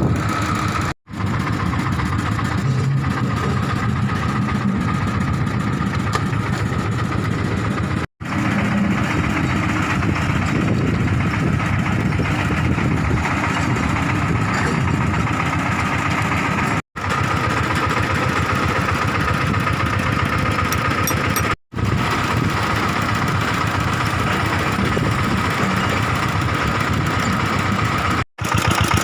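Excavator's diesel engine running steadily, with a constant high whine over it. The sound cuts out for an instant five times.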